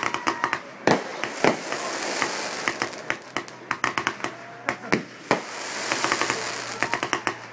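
Fireworks bursting overhead: several sharp reports, about a second in, at a second and a half and around five seconds, with rapid crackling from the burning stars between them and a sizzling hiss during two stretches.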